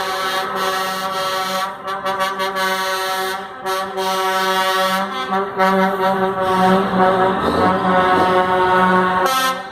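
Truck air horns blowing in long, overlapping blasts, several pitched tones sounding together like a chord, with short breaks between blasts.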